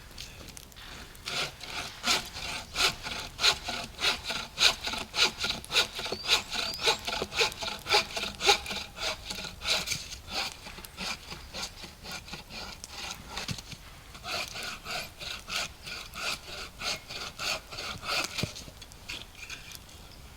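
Hand saw cutting through wood in steady back-and-forth strokes, about one and a half a second, easing off for a few seconds midway and then picking up again before stopping near the end.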